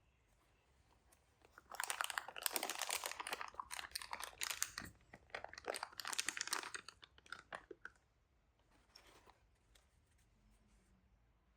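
Graphics card packaging being handled, crinkling and rustling densely with many small crackles, starting about two seconds in and lasting around five seconds, then a few scattered clicks and a faint rustle.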